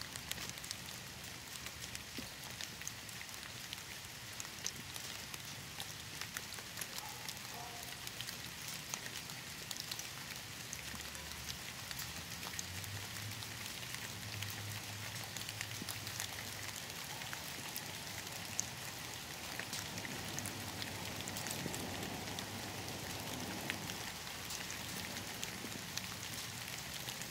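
Steady rainfall, a constant even hiss with many separate drops ticking through it.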